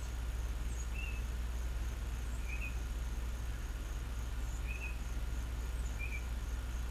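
Outdoor background with a steady low hum, and a small bird chirping four short high notes spaced a second or two apart.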